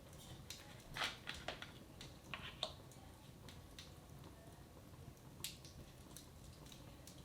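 Wood fire in a fireplace crackling, with a handful of irregular sharp pops clustered in the first few seconds and one more later, over a low steady room hum.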